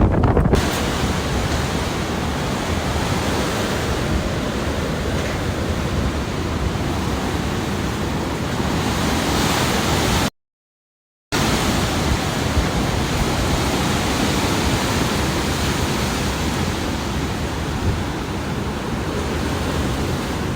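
Hurricane wind and rain: a steady, loud rush of noise, with wind buffeting the microphone. It cuts out completely for about a second near the middle, then carries on.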